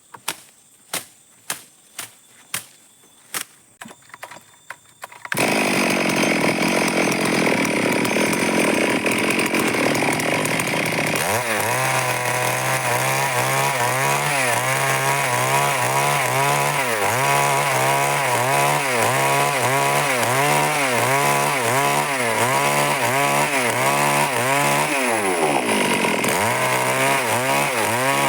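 Sharp knocks, about two a second, for the first five seconds; then a Stihl chainsaw abruptly starts running loud, and from about eleven seconds in its engine speed rises and falls over and over as it cuts through wood.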